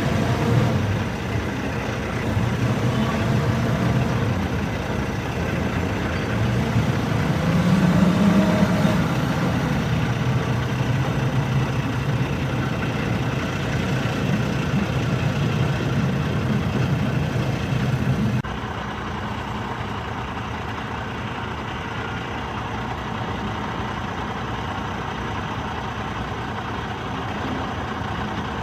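Heavy vehicle engine running, swelling in level around eight seconds. About eighteen seconds in it drops abruptly to a quieter, steady idle.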